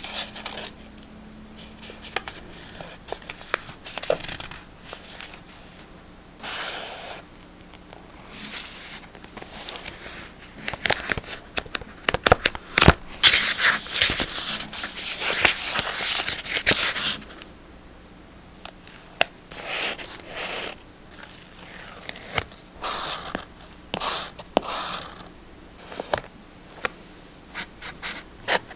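Close-up paper handling: short separate rustles, scrapes and light taps of paper, with a longer, louder stretch of dense paper crinkling or tearing about halfway through.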